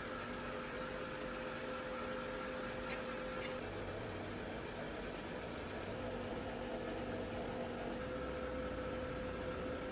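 Factory production machinery running with a steady hum over an even hiss. The hum shifts a little about a third of the way in and settles again after a few seconds.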